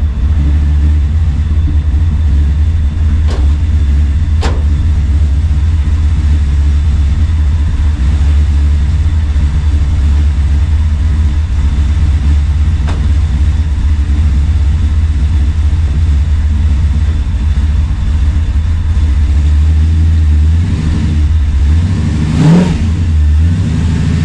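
Chevrolet C10 pickup's engine idling with a heavy low exhaust rumble, blipped twice near the end with short rising revs. Two short clicks sound a few seconds in.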